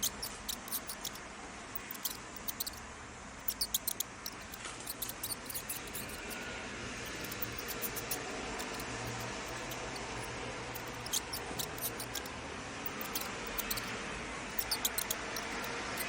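A mouse squeaking: short, very high-pitched squeaks in quick clusters, coming every second or two with some longer gaps, over a steady background hiss.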